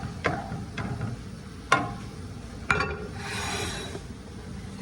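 Kitchen utensils and cookware clattering: a few sharp knocks, then about a second of rustling noise near the middle.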